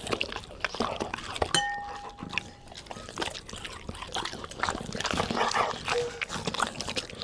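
Golden retrievers eating soft fruit: irregular wet chewing, lip-smacking and mouth clicks. A brief steady tone sounds about a second and a half in.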